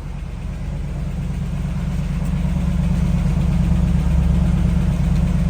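1965 Lehmann-Peterson Lincoln limousine's 430 V8 idling shortly after a cold start, a steady low exhaust drone that grows louder over the first few seconds.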